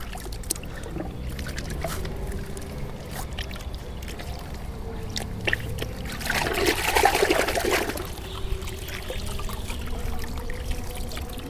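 Water trickling and dripping while a motorbike is washed by hand, with scattered small knocks and a louder spell of splashing about six seconds in that lasts a couple of seconds.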